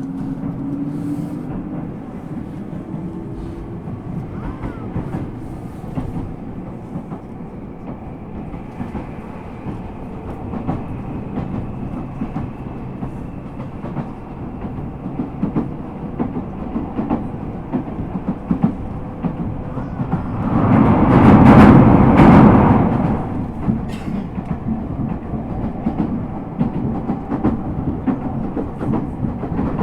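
Ueda Electric Railway 1000 series electric train running, heard from inside the car: wheels clicking over rail joints, with a faint Toyo GTO-VVVF inverter and traction-motor whine that slowly rises in pitch. About 21 s in, a loud rushing noise swells for about two seconds and fades.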